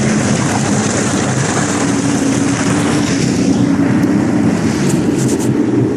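Jet ski engine running steadily under way, its drone growing a little stronger about two seconds in, over a constant hiss of wind and water. A few brief clicks come near the end.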